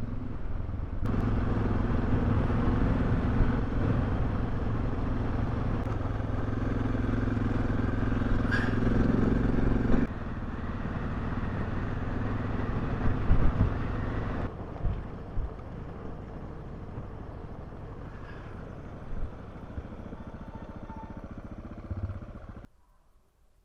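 Suzuki DR650 single-cylinder dual-sport motorcycle engine running at a steady pitch while riding, with wind and road noise. The sound drops abruptly about ten seconds in and again around fourteen seconds, runs quieter after that, and goes nearly silent near the end.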